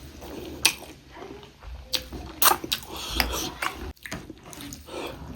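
Close-up eating sounds of a person chewing pork ribs and rice: irregular wet smacks and sharp clicks of biting and chewing.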